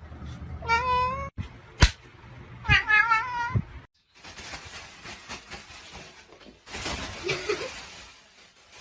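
Cat meowing twice, the second call about two seconds after the first, with a sharp click between them. A softer, noisy stretch follows.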